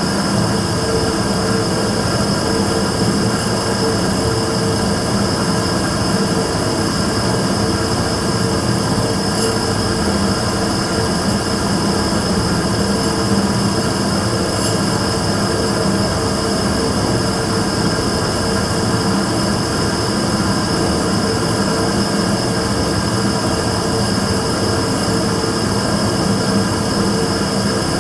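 Immersion-tube burner firing steadily: an even rushing noise with a steady high whine and lower hums throughout, the sound logged as the burner's abnormal noise.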